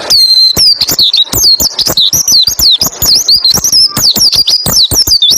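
White-eye (pleci) singing a fast, unbroken run of high, sliding chirps and trills, the rapid rolling 'roll tembak ngalas' song style used as masteran for training other white-eyes.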